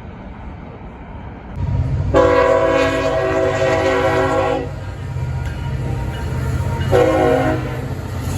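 Diesel locomotive horn on the CSX L640 local freight sounding one long blast and then a short one, over the rising rumble of the approaching locomotive's engine.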